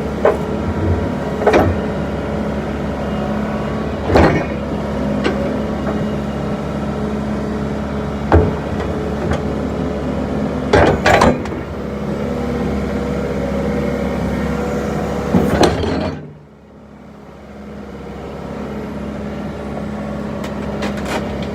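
John Deere 120 excavator's diesel engine running steadily, with sharp knocks every few seconds as the machine works and moves. About 16 seconds in, the sound drops off suddenly, then the engine hum builds back up.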